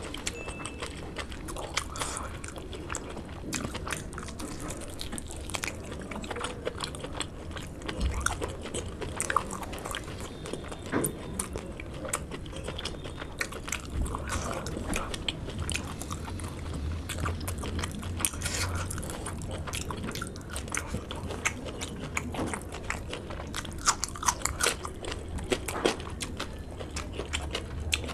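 Close-miked eating sounds of a man eating pork curry and rice with his fingers: chewing and wet mouth smacking, with many short clicks.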